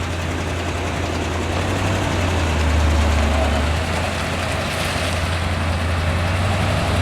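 A 1982 Chevy C30's 5.7-litre small-block V8 running at low revs, slightly louder for about a second near the middle.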